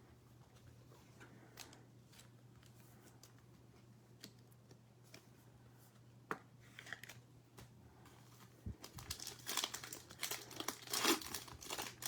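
Trading card pack wrapper being crinkled and torn open in the last few seconds, after a stretch of faint scattered clicks from cards being handled.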